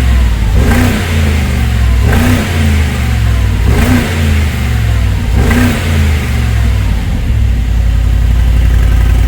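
Mercedes-AMG G63's twin-turbo V8 through a Brabus-style aftermarket exhaust, revved in four quick blips about a second and a half apart, then settling back to a steady idle for the last few seconds.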